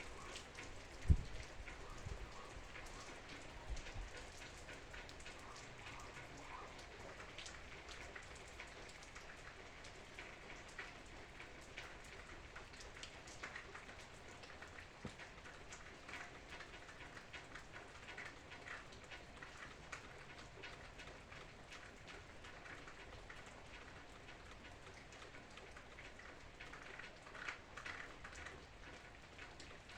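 Steady rain falling, with many separate drops ticking on a surface and a cluster of louder drops near the end. A low thump sounds about a second in.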